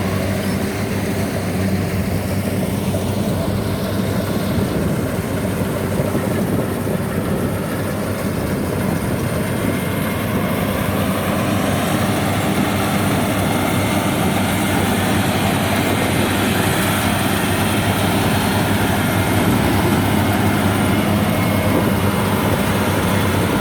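Rice combine harvester's diesel engine running steadily, a constant low hum under a broad rush of machine noise.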